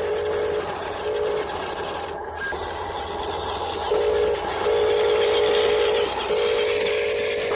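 Small electric motors of a remote-control construction model whining in stop-start stretches as its controls are worked, over a steady noisy background.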